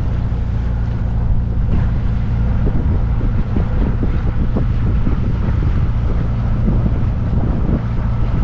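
Sailboat's Beta Marine 45 diesel inboard engine running steadily, with wind buffeting the microphone.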